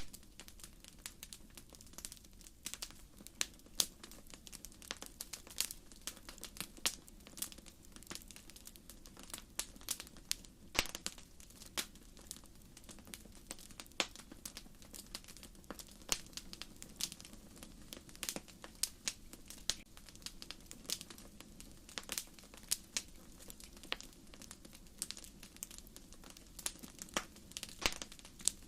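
Wood fire crackling, with irregular sharp pops of burning firewood, several a second, over a low, steady rush of flame.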